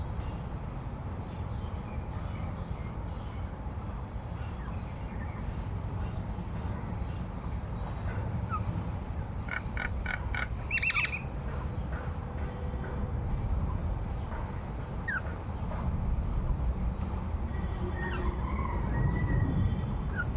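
Outdoor bird ambience: scattered short bird calls, with a quick run of repeated chirps about ten seconds in, over a steady high insect drone and a low rumble.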